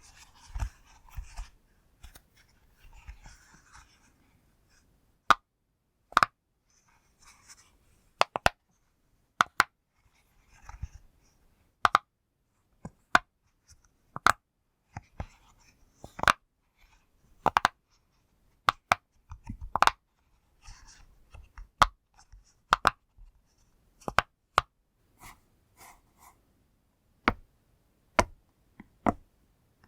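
Bubbles of a push-pop fidget toy being pressed one at a time, giving sharp, crisp pops at an uneven pace of about one a second, with faint rubbing from handling the toy in between.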